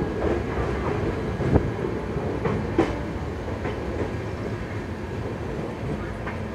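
Passenger train coach running along the track, heard at an open doorway: a steady rumble of wheels on rail with occasional sharp clacks as the wheels cross rail joints.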